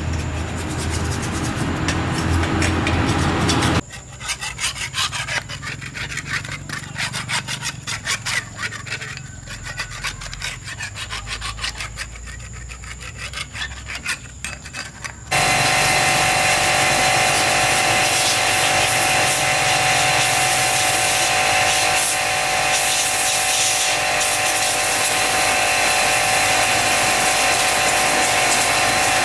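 Restoration work on rusty motorcycle parts. A machine runs briefly, then there is a long spell of rapid hand scraping or rubbing strokes on metal. About 15 seconds in it cuts to a power tool running steadily and loudly.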